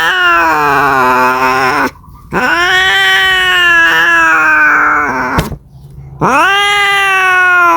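Domestic cat yowling (caterwauling) in long drawn-out calls that rise and fall in pitch, the kind of yowl a cat makes calling for a mate. The calls break off twice, about two seconds in and about five and a half seconds in, with a short click just before the second break.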